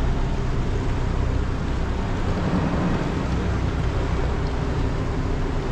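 Tour boat's motor running steadily, a constant low drone with a wash of noise over it.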